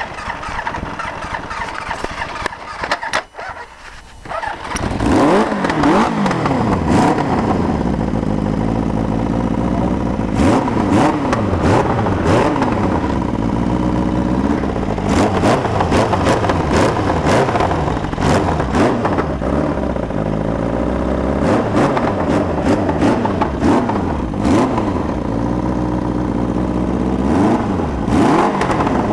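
Polaris ATV with a swapped-in Kawasaki 750 engine running, dipping briefly about three to four seconds in. The engine is then revved up and down over and over, its pitch rising and falling many times.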